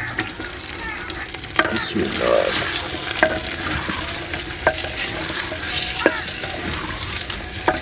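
Raw chicken pieces sizzling in hot ghee in a clay handi as they are stirred with a wooden spoon. The spoon knocks against the pot about every second and a half over the steady sizzle.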